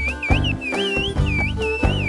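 A quick run of short whistled notes gliding up and down, human whistled speech in the Turkish whistled language of the Black Sea mountains, over background music with a steady beat.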